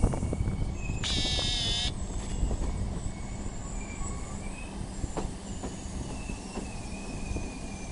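Passenger train running along the track, heard from inside the carriage: a steady low rumble with a few sharp knocks from the wheels. About a second in, the wheels give a loud high-pitched squeal on the rails for under a second, and fainter squeals follow later.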